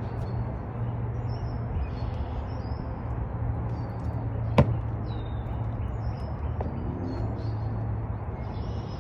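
Small birds chirping in short repeated calls over a steady low hum and outdoor background noise, with one sharp click about four and a half seconds in.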